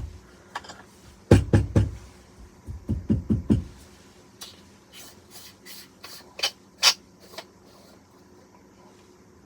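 Hand coffee grinder knocked and handled once grinding is done: three heavy knocks about a second in, a quicker run of about five knocks, then lighter clicks and taps.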